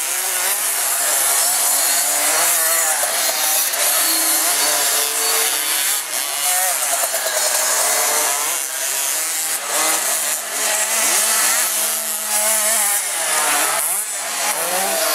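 Several small 50 cc two-stroke motocross bikes racing, their high buzzing engines overlapping and revving up and down as they accelerate and back off.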